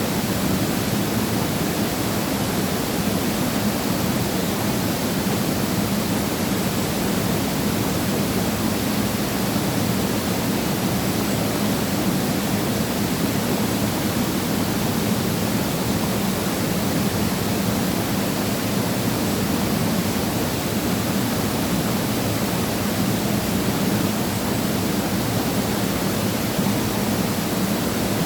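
Waterfall pouring steadily into a pool: an unbroken rush of falling water with a deep low rumble beneath it.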